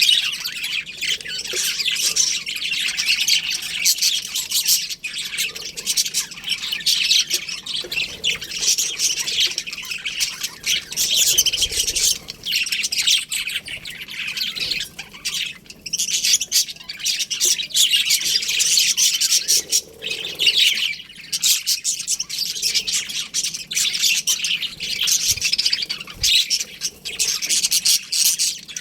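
A colony of budgerigars chirping and chattering together, a dense, unbroken mix of many short high chirps and squawks.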